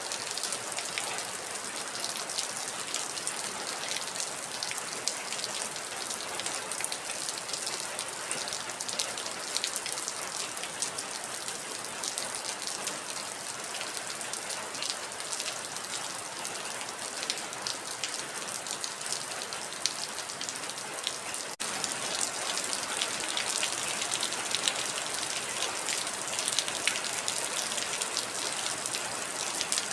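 Heavy rain falling steadily: a dense patter of individual drops over an even hiss, with a momentary break about two-thirds of the way through.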